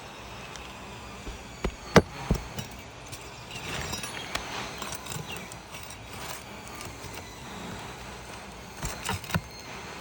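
Hand tool knocking and scraping on asphalt roof shingles while prying out a stubborn roofing nail. There are a few sharp knocks, the loudest about two seconds in, then a stretch of scraping, and another quick cluster of knocks near the end.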